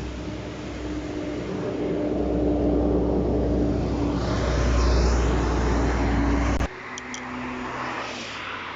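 Diesel locomotive engine running with a steady low hum that grows louder, then cuts off abruptly about two-thirds of the way in, leaving quieter, hissier noise and a couple of sharp clicks.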